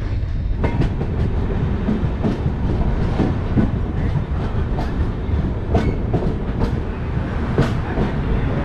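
LHB passenger coach rolling along the track: a steady low rumble with irregular clicks and clacks as the wheels pass rail joints.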